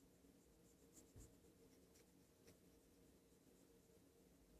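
Near silence, with faint soft rubbing and a few light ticks as chrome powder is worked onto a nail swatch with an applicator.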